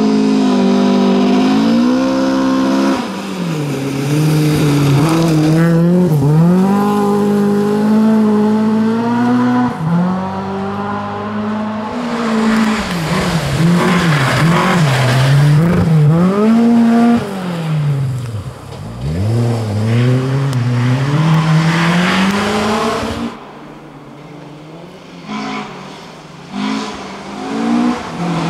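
Volvo 740 rally car's engine revving hard on a stage, the pitch climbing and dropping again and again with the gear changes. About twenty-three seconds in it falls away to a much quieter sound with a few short blips, then comes back loud near the end.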